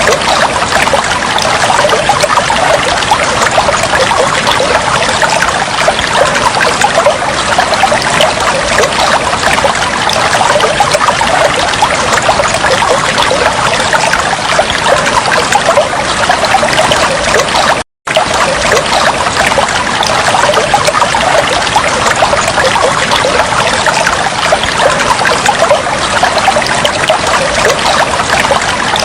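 Steady, loud flowing and trickling water, like a brook. About eighteen seconds in it cuts out to silence for a split second and then resumes.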